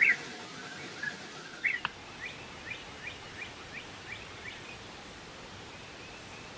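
A bird chirping: a few separate chirps, then a quick run of about nine short falling notes, over a steady hiss of outdoor background noise.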